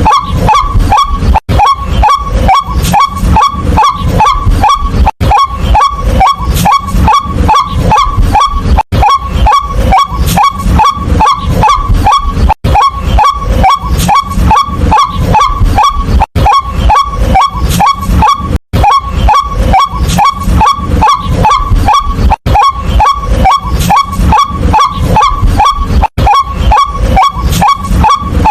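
White-breasted waterhen giving its loud, repetitive 'kwak' call, a rapid run of short notes at about three a second, with a brief break every few seconds.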